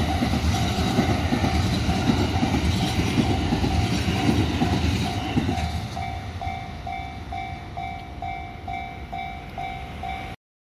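A train passing over a level crossing, its wheels rumbling and clacking on the rails, while the crossing's warning bell rings steadily. The train noise fades about five and a half seconds in, leaving the bell ringing a little over twice a second, and the sound cuts off abruptly just before the end.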